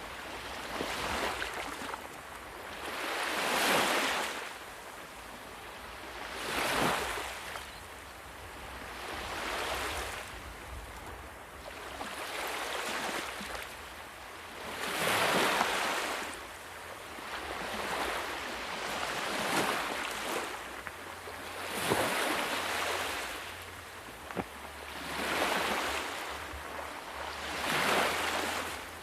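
Sea waves breaking and washing in on a shore: a steady rush of surf that swells and falls back every two to four seconds, with a few surges louder than the rest.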